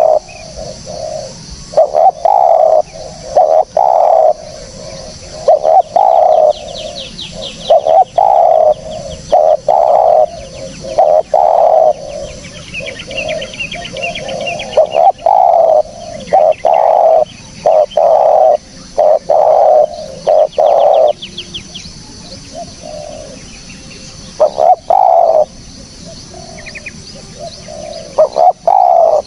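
Spotted dove cooing over and over, its low notes coming in repeated phrases with short pauses between them. Small birds twitter faintly behind it in the middle and again near the end.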